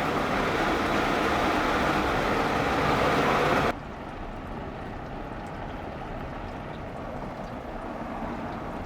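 Typhoon wind and rain making a loud, even rushing noise, which cuts to a quieter stretch of the same rushing about four seconds in.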